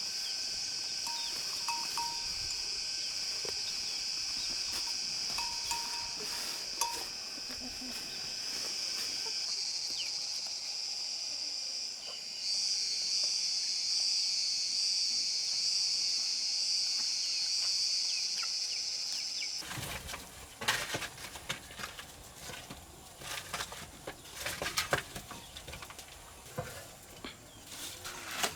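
Insects chirring in one steady, high-pitched drone that grows louder about twelve seconds in. About twenty seconds in it cuts off suddenly, and a run of irregular clicks and knocks follows.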